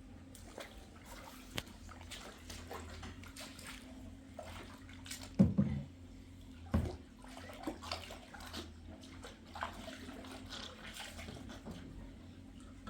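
Water sloshing and splashing amid scattered knocks and clatters, with two louder thumps about five and a half and seven seconds in.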